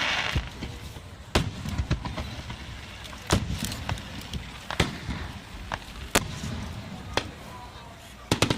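Fireworks shells bursting: a series of sharp booms, irregularly spaced a second or two apart, with a quick cluster of several bursts near the end, recorded on a smartphone microphone.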